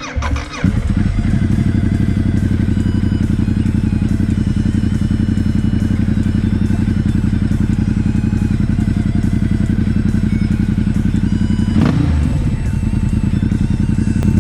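V-twin cruiser motorcycle engine running steadily with an even pulsing beat, heard up close. About twelve seconds in there is a sharp knock and the engine note wavers and dips briefly.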